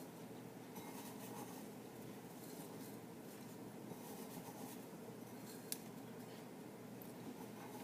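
Faint room tone with small scraping and light clicking sounds of hands working, and one sharper click a little over halfway through.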